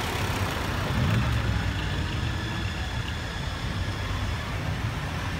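Car engines running as a vintage Peugeot torpedo racer and then a Renault Sport Spider roll slowly past at close range. The engine note rises about a second in.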